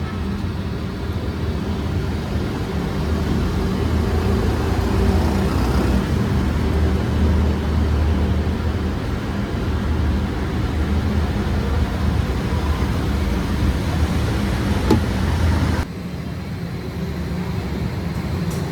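Steady low hum and drone of workshop machinery running, with an abrupt change in the sound about 16 seconds in.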